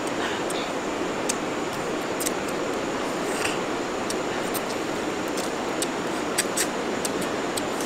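Two people eating cooked chicken with their fingers: chewing and mouth smacking heard as scattered sharp little clicks over a steady background hiss.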